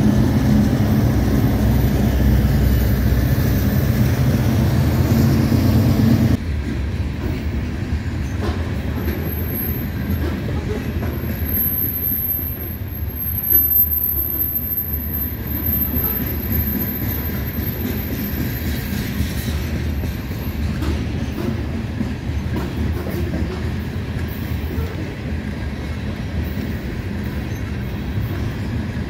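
Union Pacific diesel-electric freight locomotives running as they pass close by. About six seconds in the engine sound drops away sharply, leaving the steady rumble of covered hopper cars rolling over the rails, with a thin high squeal through the middle.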